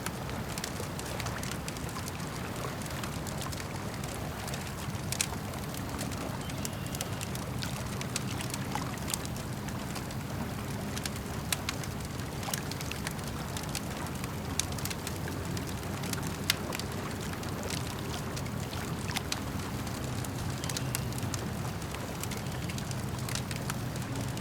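Campfire crackling, with scattered sharp pops from the burning wood, over a steady low wash of lake water and wind.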